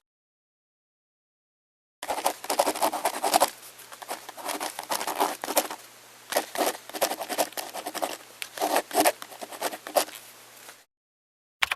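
Typewriter keys clacking in a fast run of strikes that thins out into scattered strokes, with a faint steady hum beneath. It begins after about two seconds of silence, cuts off suddenly near the end, and is followed by one more short burst.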